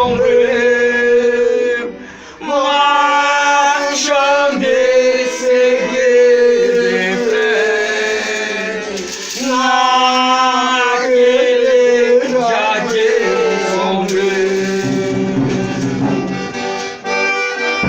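Folia group singing a slow religious verse in several voices, with long held notes and a brief break about two seconds in.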